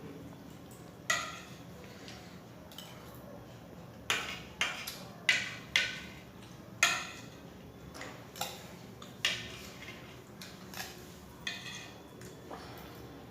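Spoon clinking and scraping against a plate during a meal, about a dozen sharp clinks at irregular intervals, most of them bunched between about four and seven seconds in.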